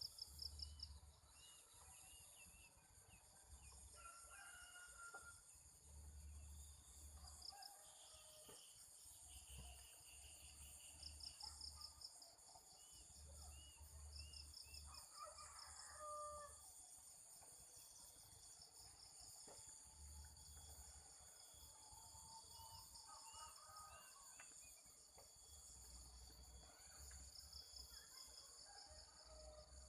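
Faint rural ambience: insects buzzing and trilling steadily, small birds chirping, and a distant rooster crowing once around halfway.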